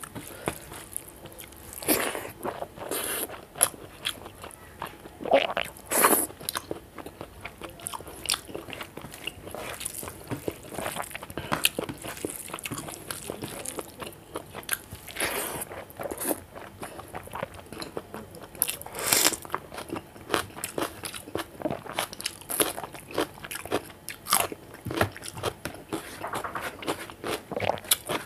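Close-miked eating sounds: chewing and crunching as rice and curry are eaten by hand, with many short, irregular wet clicks and crackles from the mouth.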